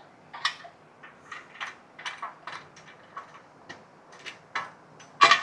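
A run of light, fairly regular clicks, about three a second, with a sharper, louder click near the end.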